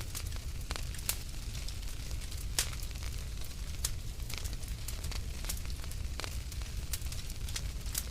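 Wood fire crackling in a fireplace: frequent irregular sharp pops and snaps, one louder pop about two and a half seconds in, over a steady low rumble.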